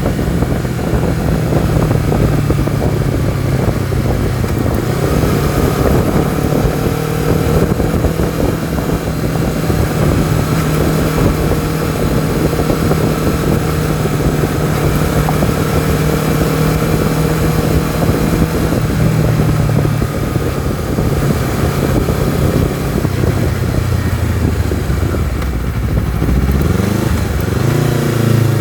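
Honda CBR250RR's parallel-twin engine running steadily under way, with wind rush. Over the last several seconds the engine note falls as the bike slows, then rises again as the throttle opens at the very end.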